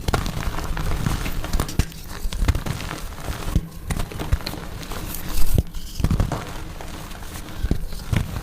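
Soft blocks of gym chalk being crushed and crumbled: a steady run of irregular dry crunches and crackles, with one louder crunch about five seconds in.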